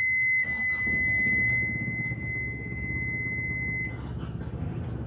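A steady, high-pitched electronic beep held as one unbroken tone that stops about four seconds in, over a low steady rumble.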